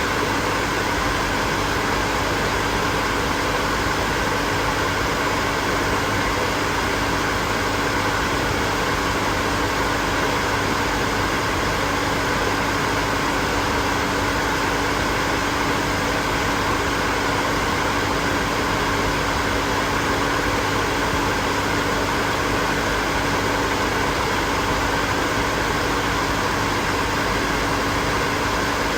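Hair dryer running steadily: a constant rush of blown air with a steady motor hum under it, unchanging throughout.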